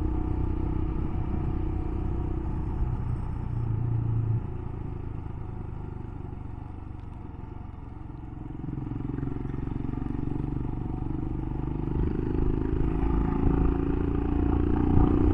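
Royal Enfield Himalayan single-cylinder motorcycle engine running on the move. It eases off a little after four seconds in and picks up again from about eight seconds.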